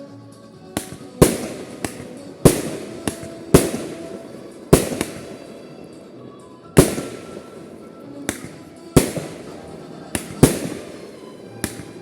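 Aerial fireworks shells bursting: about a dozen sharp bangs at uneven intervals of roughly half a second to two seconds, each trailing off in an echo.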